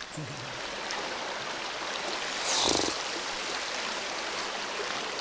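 River water running steadily, with a brief louder swish about halfway through.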